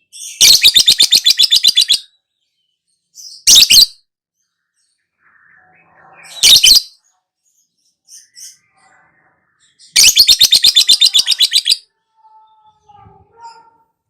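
Lovebird 'ngekek' calls, long rapid chattering trills of about ten pulses a second. One trill about a second and a half long comes near the start and another near the end, with two short shrill calls between them.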